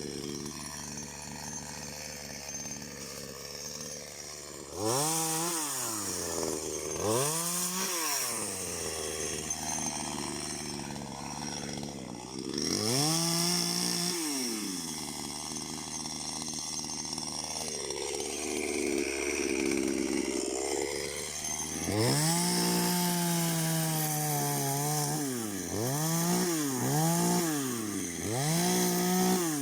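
A small engine revved up and let back down again and again, each rev lasting a second or two, with a run of quicker revs near the end.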